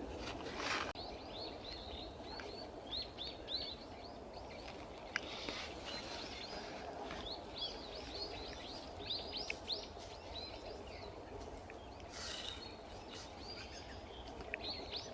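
Small birds chirping in quick clusters of short, high notes over a steady low background noise of the outdoors, with a couple of brief rushes of noise.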